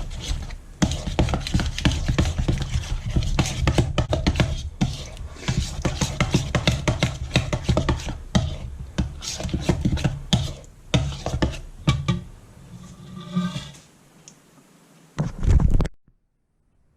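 A spoon stirring a thick yogurt marinade in a bowl, scraping and clicking rapidly against the bowl, then slowing and thinning out after about twelve seconds. A brief low thump comes near the end before the sound cuts off.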